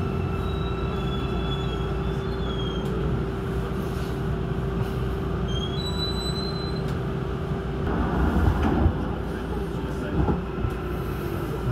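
Inside an AREX all-stop commuter train running slowly through a station: a steady rolling rumble with a constant motor hum and a few brief faint high squeals. From about eight seconds in, a louder rush as another train passes close on the adjacent track.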